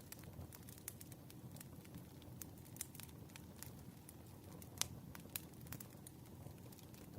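Wood fire burning: a low steady rumble with scattered sharp crackles and pops, one louder pop about two-thirds of the way through.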